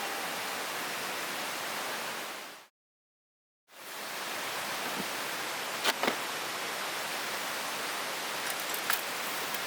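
Steady rush of flowing river water. It fades out to dead silence for about a second just before three seconds in, then returns, with a few sharp clicks around six and nine seconds in.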